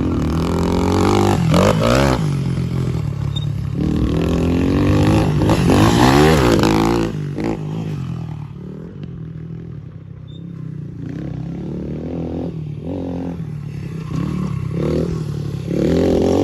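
Small dirt bike engine revved up hard twice, pushed toward its rev limiter, then dropping back to idle for several seconds before revving again near the end.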